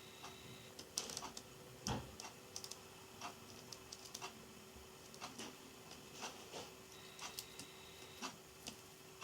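Irregular soft clicks and ticks of a Java sparrow's beak pecking and nibbling at pea sprouts, with one heavier thump about two seconds in.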